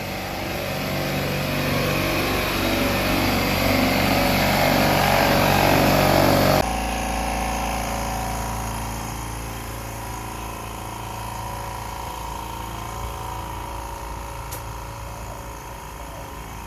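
Bostitch pancake air compressor running loudly, then about six and a half seconds in the noise cuts off abruptly to the much quieter, steady hum of a Husky 4.5-gallon silent air compressor running.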